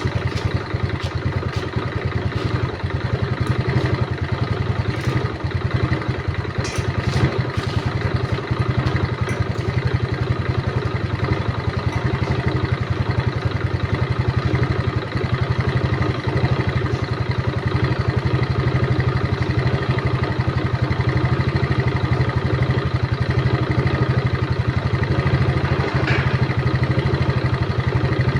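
An engine idling steadily, with a few light clicks about a quarter of the way in.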